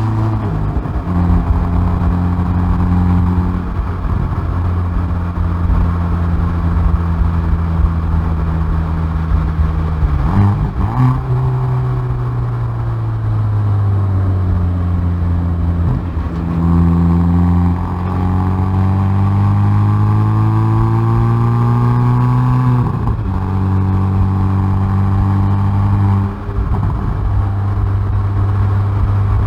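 Hyundai i30N Performance's turbocharged 2.0-litre four-cylinder exhaust, heard from the rear bumper, holding steady revs for long stretches. Its pitch slowly falls and then climbs again, with abrupt jumps in the note twice where the gear changes.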